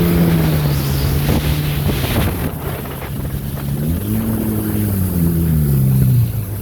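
Two-stroke twin engine of a Sea-Doo XP personal watercraft running at speed during break-in, over wind noise on the microphone. Its pitch climbs about four seconds in, eases back down, then drops off sharply just before the end as the throttle comes off.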